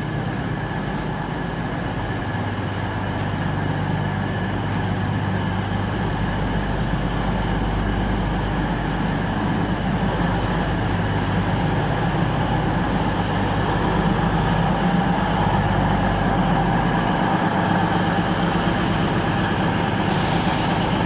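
Diesel train engines running steadily with a low, even hum that slowly grows louder.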